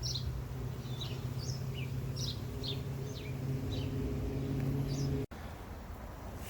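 Small birds chirping, a run of short quick falling chirps, over a steady low mechanical hum. Both stop abruptly about five seconds in, leaving a quieter background.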